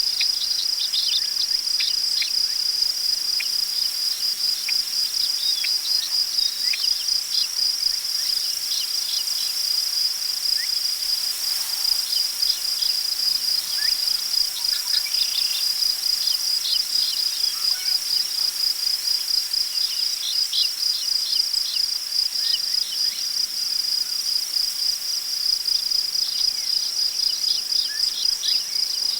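Crickets trilling in a steady, high, rapidly pulsing chorus, with scattered short bird chirps. Beneath them is a soft rustle of wind in tall prairie grass, swelling briefly about eleven seconds in.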